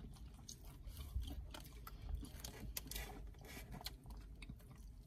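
A person chewing food close to the microphone: soft, irregular mouth clicks and crunches.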